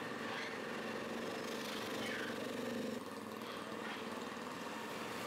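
Small motorcycle-type engine running steadily, a little quieter after about three seconds.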